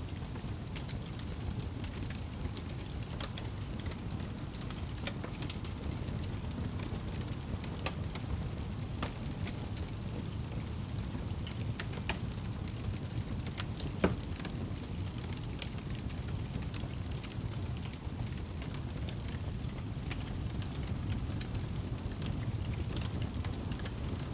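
Crackling fire over steady rain: a constant low rain rumble with scattered crackles and one louder pop a little past halfway.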